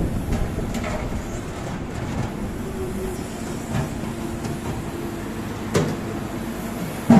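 Steady engine rumble with faint droning tones, broken by two sharp knocks, the louder one near the end.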